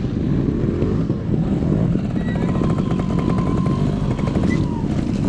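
Trials motorcycle engine running at low, varying revs.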